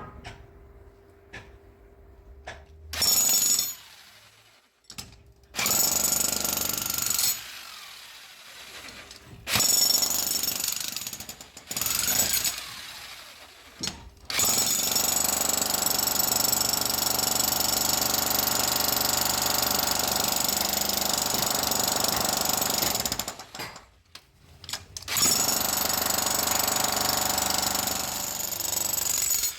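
Power tool cutting channels for plumbing pipes into a masonry wall, run in short bursts and then one long stretch of about eight seconds, with a high whine over the grinding noise.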